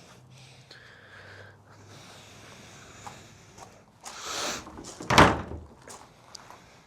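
Quiet room tone, then a short rustle about four seconds in and a single loud knock about a second later.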